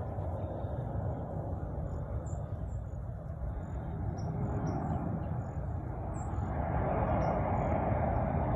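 Jet engine noise of a Boeing KC-135 Stratotanker flying overhead: a steady rumble that grows louder about two-thirds of the way through. Small birds chirp faintly above it.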